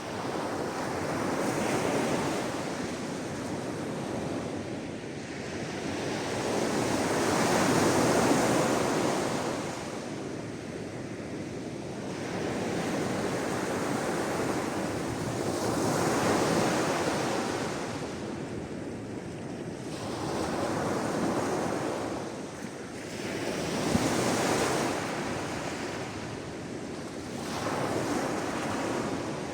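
Sea waves breaking and washing on the shore in slow surges, each rising and falling over a few seconds, about seven in all.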